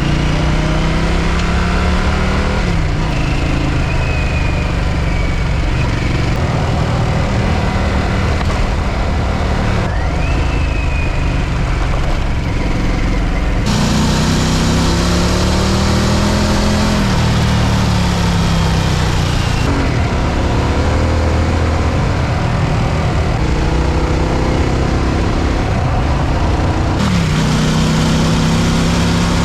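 Harley-Davidson motorcycle engine under way, its note climbing and then dropping several times as it accelerates and shifts gears, under a steady rushing noise of wind and road.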